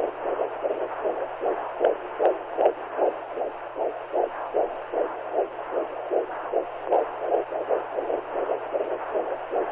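Womb sound for soothing newborns: a mother's heartbeat and blood flow as heard inside the uterus, an even run of muffled whooshing beats, several a second, over a steady hiss and a faint low hum.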